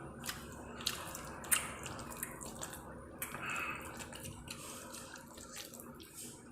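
Close-up wet chewing and mouth sounds of someone eating, with several sharp wet clicks in the first second and a half and a brief smacking swell about three and a half seconds in.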